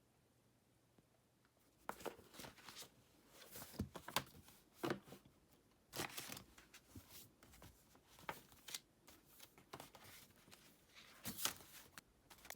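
Rustling and crinkling handling noises from thin material such as paper or wrapping, in irregular short bursts that begin about two seconds in after near silence.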